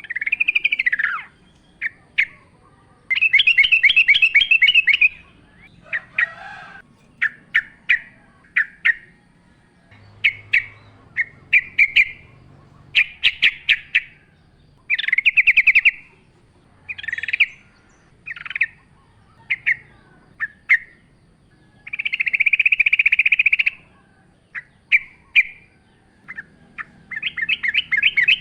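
Yellow-vented bulbul (trucukan) calling in a wild recording: groups of short, sharp chirping notes alternate with fast rattling trills of a second or two, with brief pauses between phrases.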